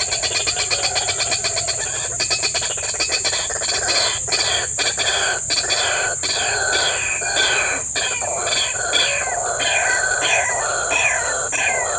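White-breasted waterhen calling: a run of repeated falling notes that begins a few seconds in and comes faster toward the end, over a steady high hiss.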